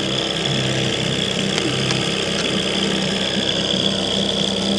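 Boat motor running steadily at trolling speed, an even hum with a thin high whine over it.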